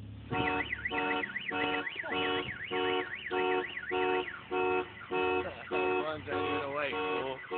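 Electronic car alarm siren sounding: steady repeating beeps about two a second, with a fast up-and-down warble over them for the first few seconds, then changing to bending chirp-like tones near the end as it cycles through its tones.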